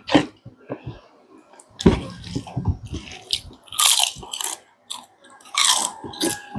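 Close-miked eating: a person biting and chewing food, the mouth sounds coming in irregular bursts, loudest about 4 s and 6 s in.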